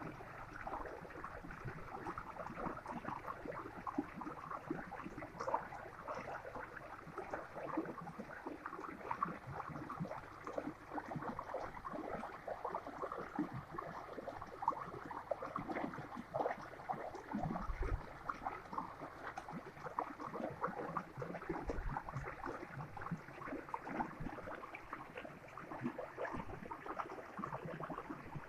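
Small stream of water babbling and gurgling steadily over stones.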